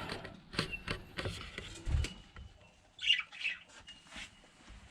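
A few clicks and knocks from handling at the cage, then several short, high-pitched calls from week-old budgie chicks in the second half.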